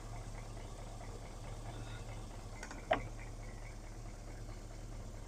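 Pickup truck engine idling, a steady low hum, with one short sharp rising squeak about three seconds in.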